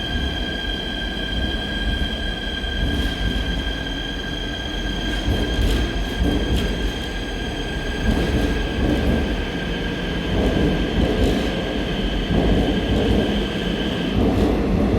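Seoul Subway Line 4 electric train moving through the station: a rumble of wheels on the rails under a steady high whine that cuts off about fourteen seconds in.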